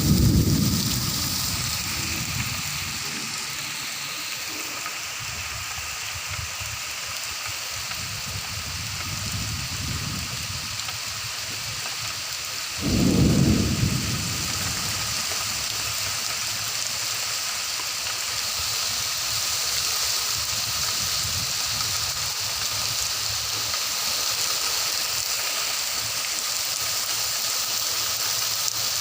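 Steady rain with low rumbles of thunder, the loudest starting suddenly about 13 seconds in and lasting a second or so.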